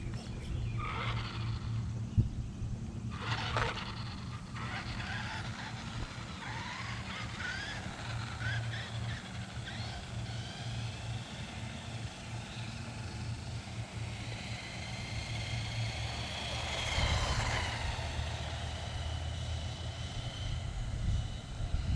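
Small electric RC monster truck running: its motor whines, rising and falling in pitch with the throttle, loudest about 17 seconds in.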